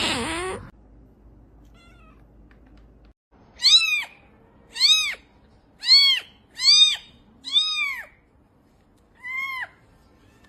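A cat meowing six times in short, high-pitched mews, each rising and then falling in pitch, roughly a second apart, starting about three and a half seconds in.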